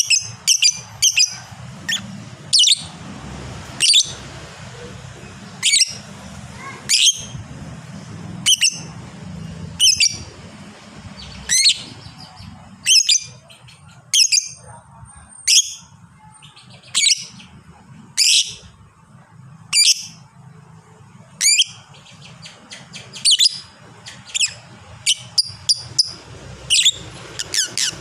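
Lovebird calling: short shrill chirps, singly and in quick runs of two to four, about one a second, over a faint low hum.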